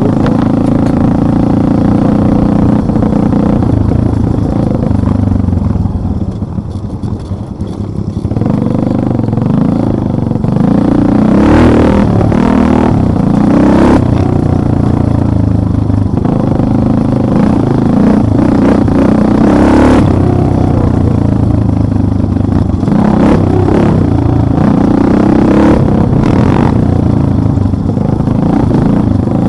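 Motorcycle engine running under way, loud and continuous; the throttle eases off for a couple of seconds about six seconds in, then the engine revs back up and keeps pulling.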